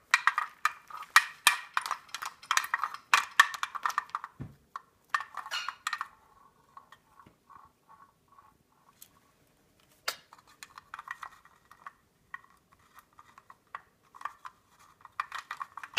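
A Cape parrot playing, its beak making quick runs of sharp clicks and taps on a hard object for about six seconds. Then come quieter, scattered clicks and a few faint soft pulses.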